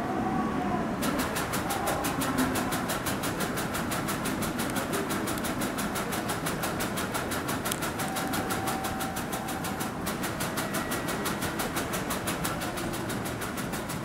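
Kintetsu train running at the station platform: a steady rumble, with a rapid, even clatter that starts about a second in.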